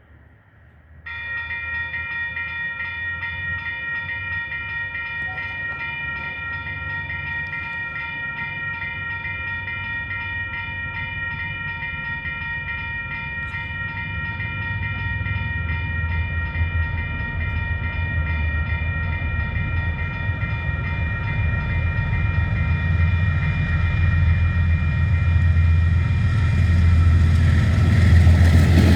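Level crossing warning bells start about a second in and keep ringing steadily. Under them a train's rumble builds from the middle and grows loud near the end as the train approaches the crossing.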